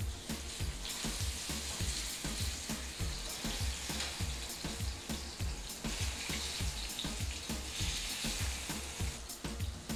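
Plantain slices sizzling and crackling as they shallow-fry in hot oil in a skillet, over background music with a steady low beat.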